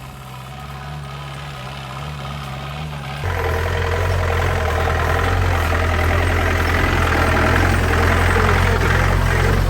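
Off-road jeep engine running steadily. About three seconds in it steps up suddenly in loudness and holds there, a strong low hum with a rougher noise over it.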